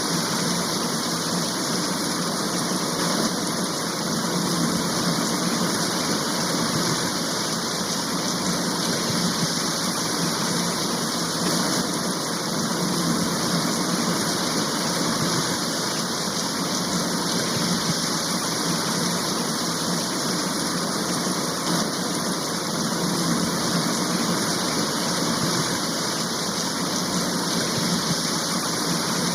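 A rain shower pouring down steadily: an even, unbroken hiss of rain with no let-up or single drops standing out.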